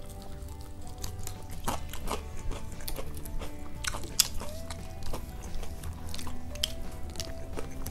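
Close-up chewing and mouth clicks of someone eating crispy fried chicken and rice by hand, with scattered sharp crunchy clicks, over steady background music.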